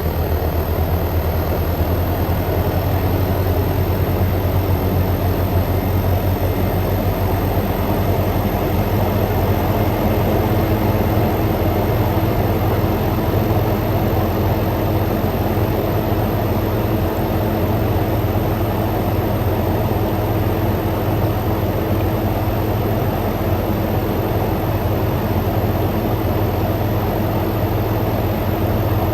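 Frigidaire Gallery GHWQ103WC1 dual inverter window air conditioner's compressor and condenser fan running, heard up close from the condensate pan: a loud, steady hum and fan rush as the inverter compressor ramps up, with a steady tone joining about ten seconds in.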